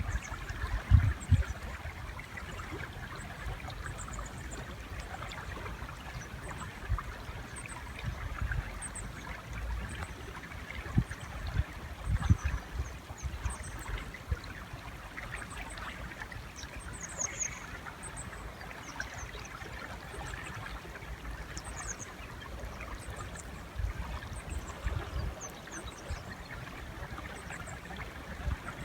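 River water running steadily, with short high chirps of small birds scattered throughout and a few low thumps.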